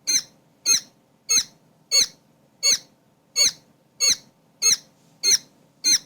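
A newly hatched quail chick peeping: ten short, loud, high-pitched peeps in an even rhythm, about one and a half a second, which the owner reads as the chick being really hungry.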